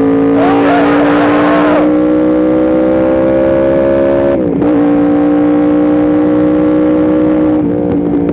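Yamaha R1M's crossplane inline-four engine under steady throttle, revs climbing slowly. About four seconds in there is a quick upshift, with a sharp dip in pitch, and it then pulls on steadily at slightly lower revs.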